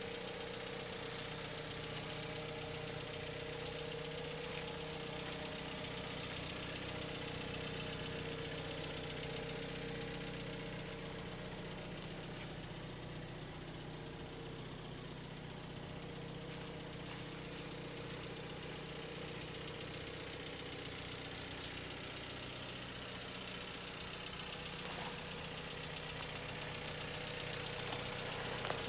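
2016 Jeep Cherokee's engine idling steadily.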